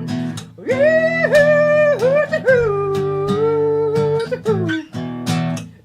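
Country song on acoustic guitar: steady strummed chords under a man singing long held notes without clear words, the melody stepping down and sliding lower about two and a half seconds in.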